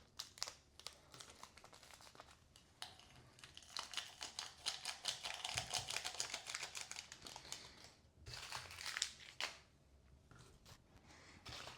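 Plastic and foil ration packets crinkling as they are handled, with many small clicks, busiest from about three to eight seconds in.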